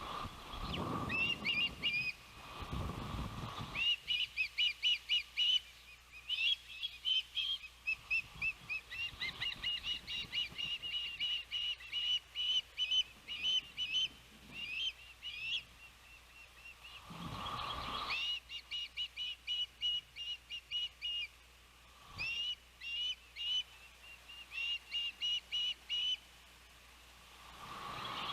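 Ospreys calling: long runs of short, sharp whistled chirps, many slurred upward, repeated several times a second in bouts of a few seconds. Gusts of wind rush on the microphone at the start, about two-thirds of the way through, and again at the end.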